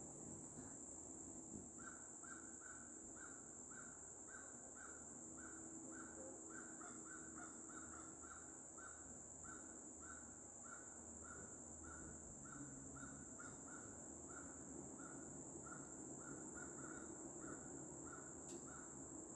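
A bird calling over and over in short, harsh notes, about two a second, faint, over a steady high-pitched buzz.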